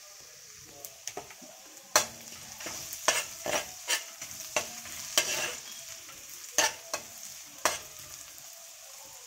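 Minced garlic and ginger sizzling in butter in a wok, being sautéed until they brown. From about two seconds in, a spatula scrapes and knocks against the wok about once a second as the pan is stirred.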